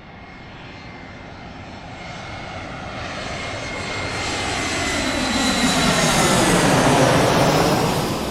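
Airplane flying over: its engine noise grows steadily louder as it approaches, peaks near the end as it passes, then begins to fade away.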